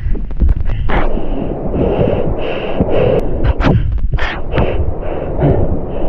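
River rapids rushing around a small boat, with wind buffeting the microphone and repeated sharp splashes and knocks.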